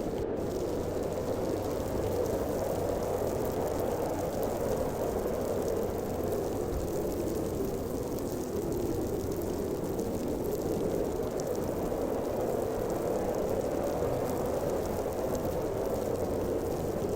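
Snowstorm wind howling in a steady rush, strongest in its lower, hollow range and swelling and easing only a little.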